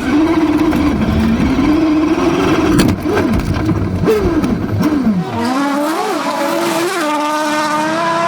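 Rally car engines at full throttle, the pitch climbing and dropping repeatedly through gear changes, with a sharp crack about three seconds in. About five and a half seconds in, the sound cuts to another car revving hard.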